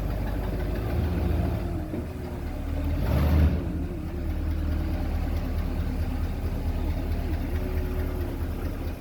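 Mercury Monterey Custom's 6.6-litre V8 running at idle with a steady low rumble, swelling briefly louder about three seconds in.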